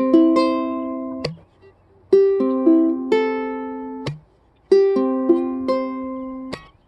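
Ukulele strummed chords: each chord is struck and restruck a couple of times, rings, then is damped to a brief silence before the next, in a loose repeating pattern of three chord groups.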